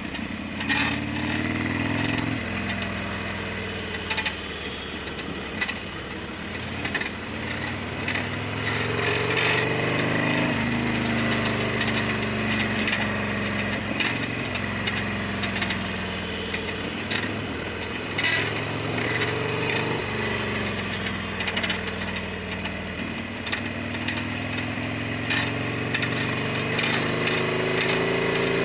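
Harley-Davidson Sportster XL1200's air-cooled V-twin running under way, its revs climbing and dropping back several times as it accelerates and eases off. Sharp clicks and knocks sound now and then over the engine.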